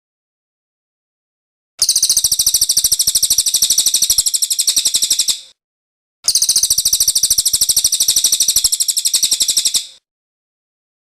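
Cililin songbird singing two bursts of rapid, high, chattering trills, each about three and a half seconds long, separated by a short silence; each burst starts suddenly and fades at its end.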